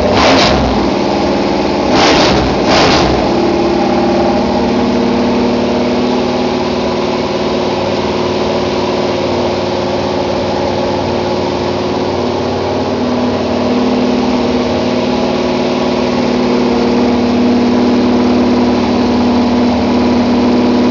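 Newly built 385 stroker small-block Chevy V8 with a flat-tappet cam running on an engine stand during cam break-in, held at a fast, steady speed. There are a few brief louder surges in the first three seconds, then it runs evenly.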